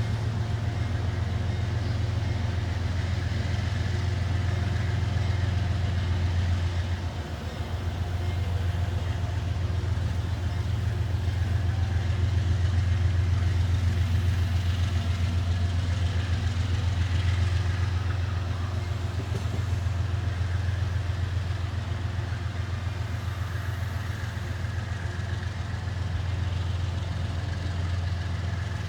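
Diesel locomotive engine idling steadily with a deep, constant hum.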